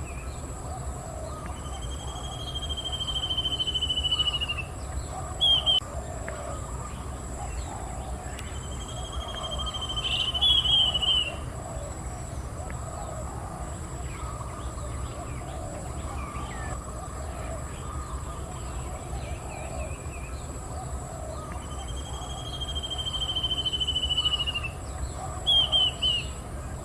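Little bronze cuckoo (Chrysococcyx minutillus) calling: three long, slightly falling trills, each followed by a few short, quick descending notes. A steady high-pitched whine runs behind it.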